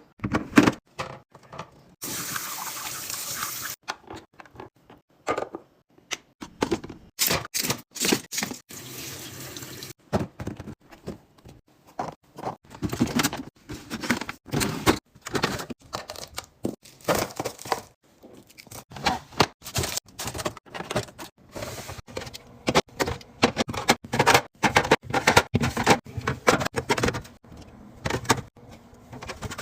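Many short knocks and clicks of containers, bottles and lids being handled and set down while a fridge is restocked. Liquid pours or a tap runs twice, about two seconds in and again around seven seconds in.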